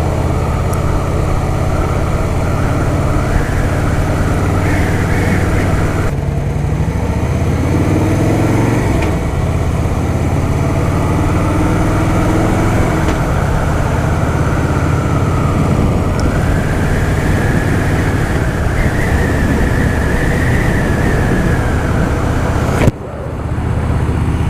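Harley-Davidson Softail Fat Boy's V-twin engine running steadily while the bike is ridden, with the pitch climbing about a third of the way in. Near the end the sound drops off abruptly for a moment before picking up again.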